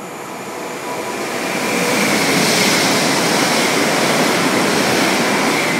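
TransPennine Express train running through the station at speed: a rushing of wheels and air that swells over the first two seconds and stays loud as the carriages pass close by, with a thin high whine running through it.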